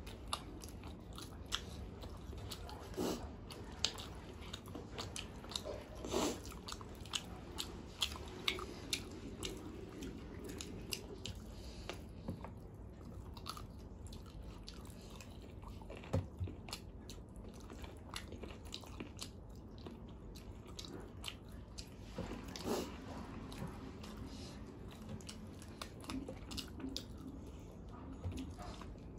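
People chewing and biting curry and rice eaten by hand, with irregular small crunches and clicks of the mouth and fingers, among them a man working on a chicken bone.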